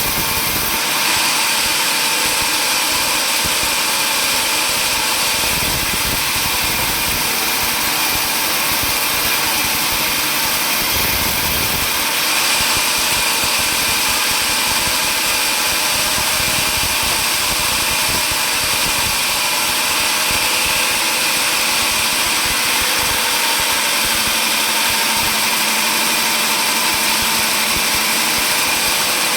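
Sawmill saw machinery running steadily: a loud, even mechanical noise with a constant high whine.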